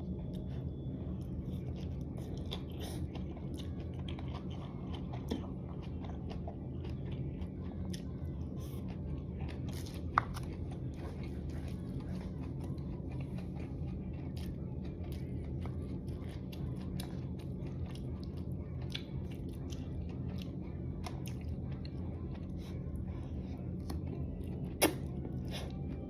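Close-up chewing and biting of a spicy dry hot pot, with many small wet mouth clicks over a steady low hum. Two sharper clicks stand out, about ten seconds in and near the end.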